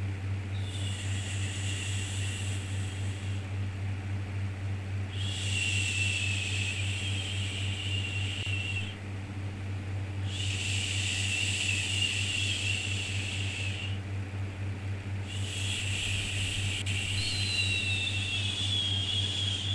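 Repeated drawn-out 'shhh' shushing sounds for soothing a baby, four in a row, each about three seconds long with a short pause between, over a steady low hum.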